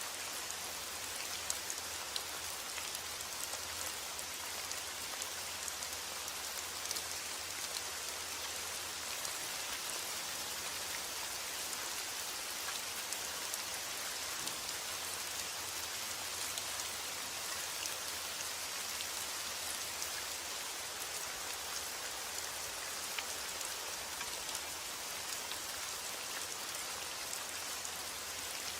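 Steady rain falling on a surface, an even hiss with scattered drop ticks, played as white noise for sleep.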